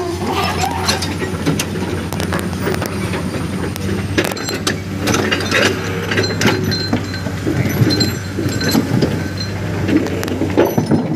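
Excavator's diesel engine running steadily under load, with many irregular clanks and scrapes of the bucket working stone and dirt.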